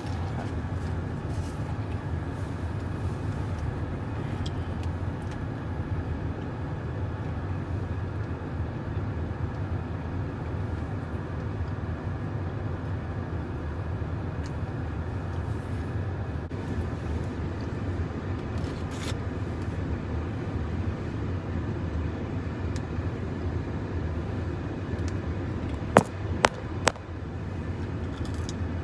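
Car engine idling, a steady low rumble heard from inside the cabin, with three sharp clicks close together near the end.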